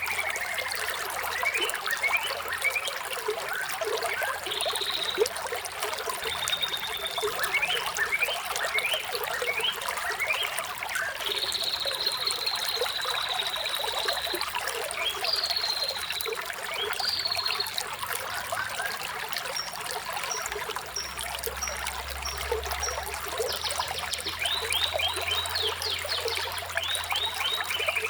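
Running water trickling steadily, with birds chirping over it: short rising and falling calls throughout, a long trill about halfway through, and a run of quick high notes later on.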